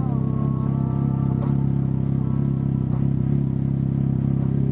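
Can-Am Ryker 900's three-cylinder engine idling steadily.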